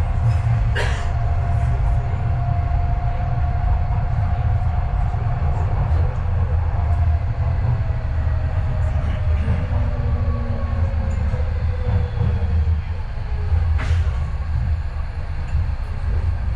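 Docklands Light Railway train running, heard from inside the carriage: a steady low rumble under a motor whine that slowly falls in pitch through the second half as the train slows for the next stop. There are a few sharp clicks, one about a second in and one near the end.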